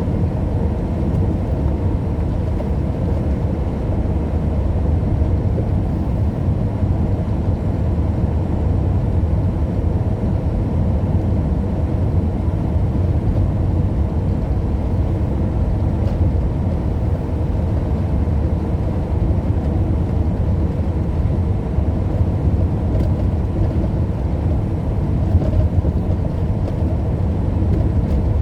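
Steady road and engine noise of a vehicle driving along at a constant speed, a continuous low rumble with no changes.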